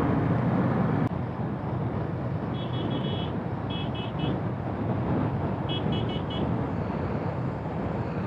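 Steady road and wind rush from a moving motorcycle, with a horn tooted in three quick bursts of three or four short beeps each, roughly a second or two apart.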